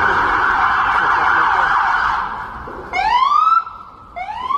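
Emergency vehicle siren: a rapid warbling tone for the first two seconds, then rising whoops from about three seconds in, the second cut short before another begins.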